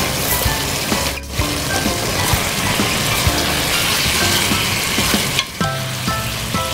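Chicken pieces sizzling in a simmering sauce in a frying pan, stirred and turned with a wooden spatula, with soft background music over it.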